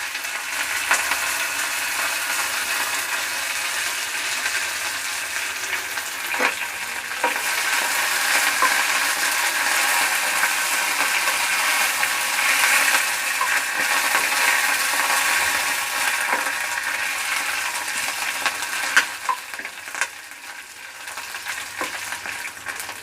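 Green chillies and curry leaves sizzling in hot oil in a kadai, stirred with a spatula that clicks against the pan now and then. The steady sizzle eases off near the end.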